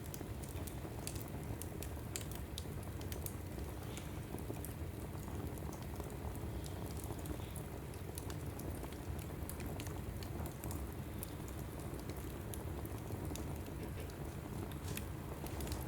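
Logs burning in a fireplace: a steady low rush of flame with frequent sharp crackles and pops at irregular intervals.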